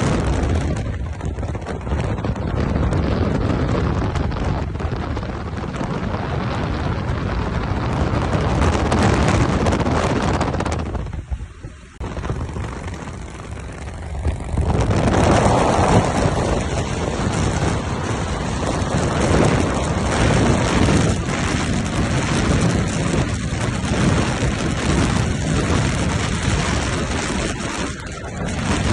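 Harley-Davidson Dyna Switchback's V-twin engine running while the motorcycle rides along the road, with heavy wind noise on the microphone. The sound dips sharply about eleven seconds in, then comes back louder.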